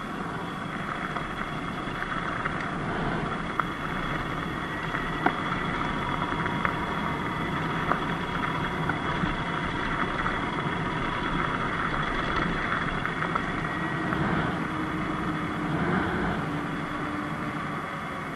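Sur-Ron X Light Bee electric dirt bike on the move: a steady high electric-motor whine over a constant rush of riding noise, with a few sharp ticks scattered through.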